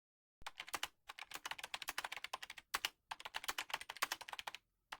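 Computer keyboard typing: a rapid run of sharp key clicks, starting about half a second in, with two brief pauses and stopping just before the end.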